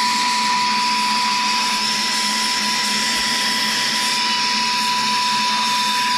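Saker 3-in-1 cordless handheld vacuum's brushless motor running steadily on its low speed setting: a steady high whine over an even rush of air.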